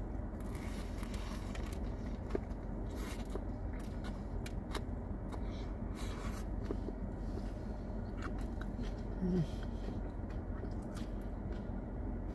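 Close-up biting and chewing of a toasted submarine sandwich: a bite at the start and another about six seconds in, with scattered crisp crunches and wet mouth clicks, over a steady low hum of the car's air conditioning.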